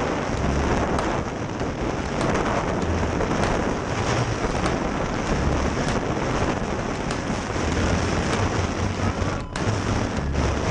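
Heavy wind rushing and buffeting a camera microphone in skydiving freefall, a continuous loud roar with irregular low thuds of gusts.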